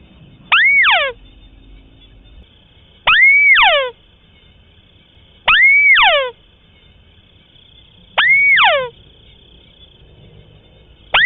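White-browed crake calling, about once every two and a half seconds: four calls with a fifth starting at the very end. Each call is an arched note that rises and falls, followed by a quick falling note.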